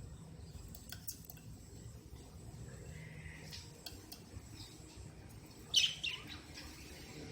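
Cockatiel calling: a few faint clicks and soft calls, then two short, sharp, high chirps in quick succession about six seconds in.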